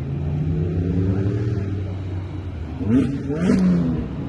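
A car engine running, its pitch rising and falling as it is revved, with a louder rev about three seconds in.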